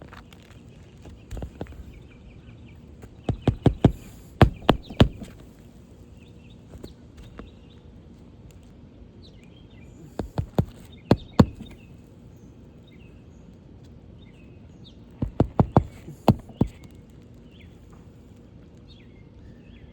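Hammer driving roofing nails into a replacement asphalt shingle: three bursts of quick blows a few seconds apart, with several strikes in each.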